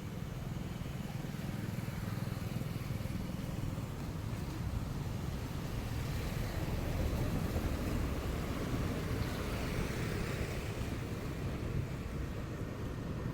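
Steady rumble of motor traffic and road noise, with no distinct single event.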